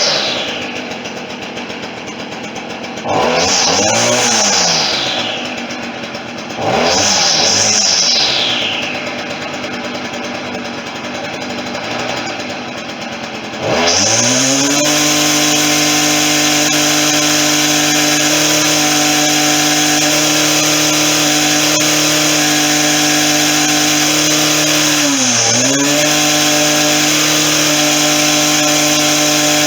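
Stihl FS40C string trimmer's small two-stroke engine blipped from idle three times, each rev rising and falling, then held at full throttle from about halfway with one brief dip near the end, as its carburetor is tuned for throttle response.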